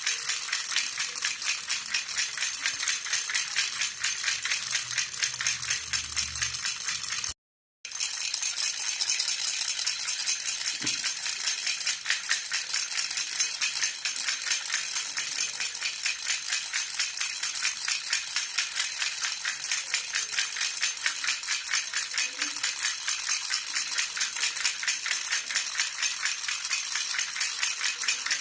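Silver jhunjhuna baby rattle shaken continuously in a quick, even rhythm, its metal bells jingling. The sound drops out for a moment about seven and a half seconds in, then carries on unchanged.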